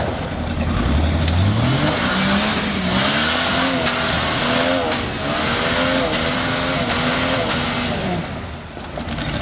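A motor vehicle's engine accelerating hard from low revs, then running at high revs with small rises and dips in pitch, easing off shortly before the end.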